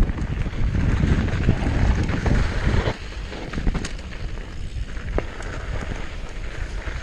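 Wind buffeting the microphone while riding a mountain bike on a trail, with scattered clicks and rattles. The heavy rumble drops sharply about three seconds in.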